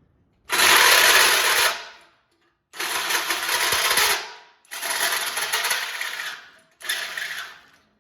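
Electric drill turning a hole saw that cuts into a steel frame, with a harsh, rasping cut. It runs in four bursts of a second or so each, with short pauses between them.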